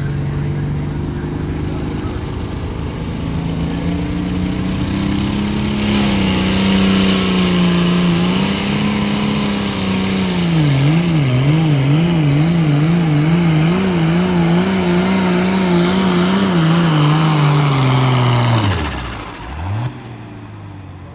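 Pulling tractor's engine running hard under load down the track: its pitch climbs, then swings up and down about twice a second for several seconds, before dropping away sharply near the end as the throttle is closed at the end of the pull.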